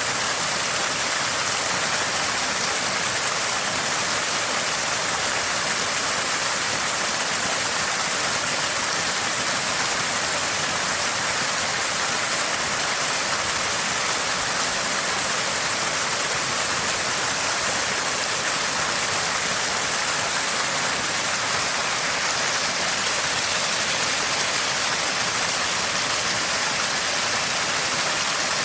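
Small spring water gushing and gurgling out of the ground in a steady, even splash.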